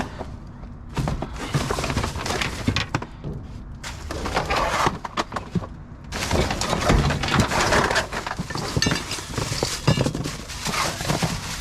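Junk being rummaged through and tossed inside a dumpster: scrap items clattering, knocking and crashing together in quick, irregular hits. It is busiest in the second half.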